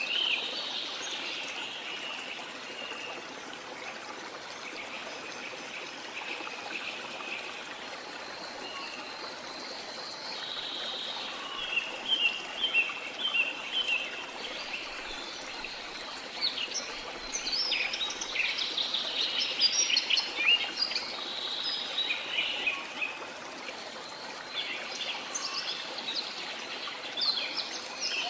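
Steady rush of a waterfall with rainforest birds chirping over it, the birdsong becoming busier in the second half.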